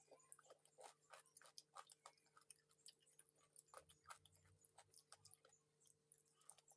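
Faint close-up mouth sounds of a person eating chicken feet: quick, irregular wet clicks, smacks and small crunches of chewing and sucking, several a second. A faint steady hum lies underneath.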